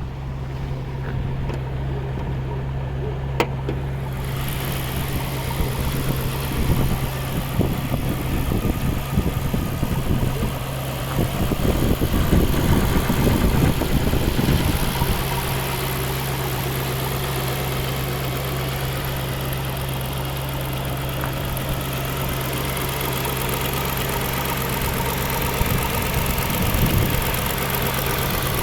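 Maserati 4200 Spyder's 4.2-litre V8 idling steadily, with a louder, rougher stretch in the middle before it settles again.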